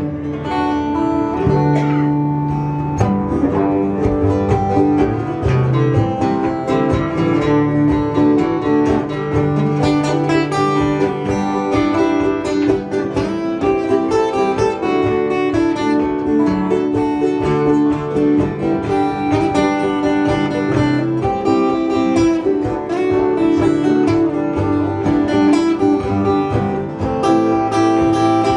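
Acoustic guitars playing an instrumental break in a folk song: strummed chords and picked notes over a moving bass line.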